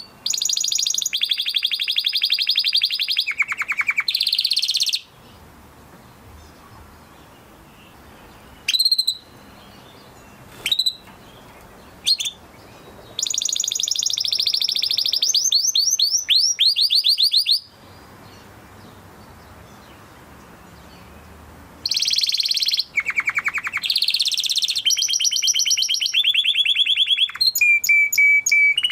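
Domestic canary singing in bursts of a few seconds: fast high trills and rolls, some rising sweeps, and three short single calls in the middle, with pauses between the phrases.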